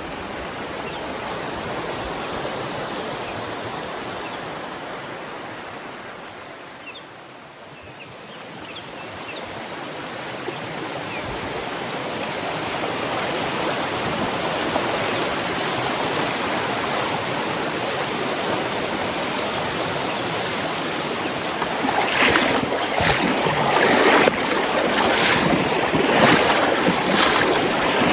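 Mountain stream water running steadily. It dips a few seconds in and then builds back. Over the last six seconds there are irregular splashes close by.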